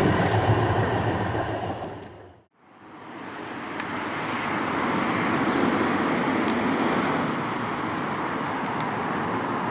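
A passing train's rumble fades away over the first two seconds and cuts out briefly to silence. After that a steady rumbling noise with a few faint clicks swells up and holds.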